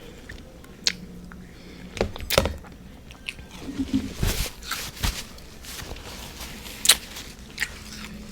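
Close-up crunching and chewing of refrozen freezer frost mixed with whipped cream: several sharp, separate bites with softer chewing in between.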